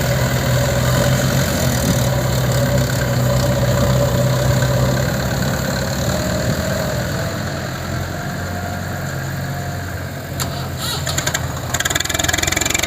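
Heavy machine's diesel engine running steadily, easing off slightly about two-thirds through, with rapid clattering and rattling near the end.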